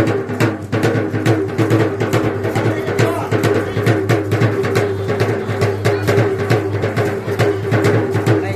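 Fast, dense percussion music: rapid drum strikes, close together and unbroken, over a steady low bass note.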